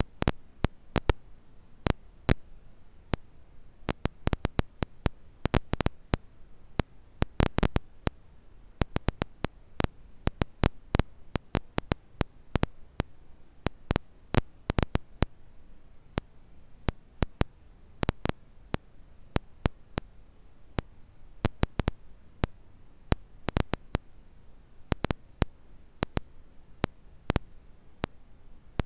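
Wood campfire crackling: irregular sharp pops and snaps, several a second, over a faint steady hiss.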